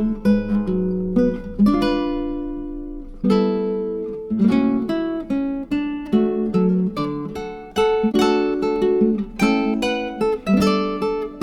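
Background music: acoustic guitar playing plucked and strummed notes, each one ringing on and fading.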